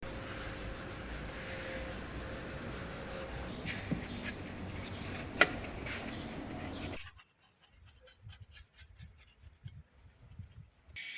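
Scrubbing on car engine-bay surfaces: steady rubbing with a sharp click about five and a half seconds in. About seven seconds in it cuts to quieter, rapid strokes.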